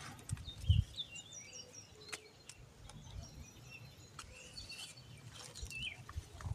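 Small birds chirping in short, high, scattered calls, with a low thump on the microphone just under a second in.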